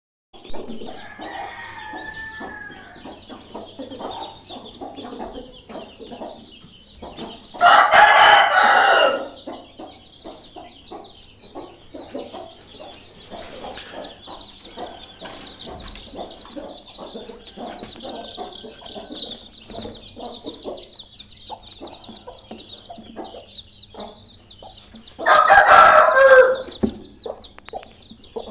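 Desi chicken flock: a rooster crows twice, once about eight seconds in and again near the end, over steady high peeping from chicks and the clucking of hens.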